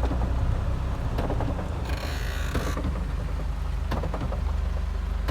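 Heavy rain falling, over a steady low rumble, with a brief louder burst of hiss about two seconds in.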